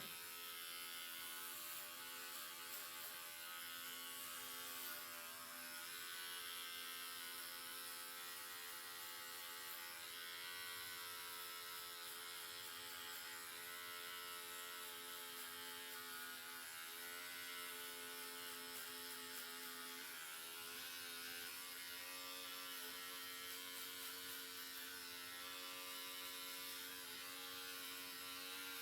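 Electric hair clippers buzzing steadily, their pitch wavering slightly a few times.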